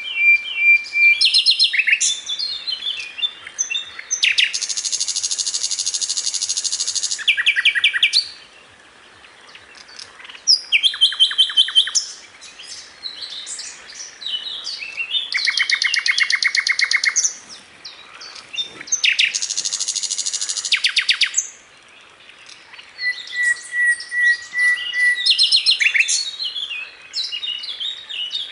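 Sikatan londo flycatcher singing a varied song: long, fast, buzzy trills alternating with chattering notes and short steady whistles, in phrases of a few seconds with brief pauses between them.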